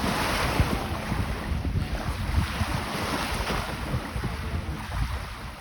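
Wind buffeting the microphone in uneven gusts over the wash of Lake Michigan waves.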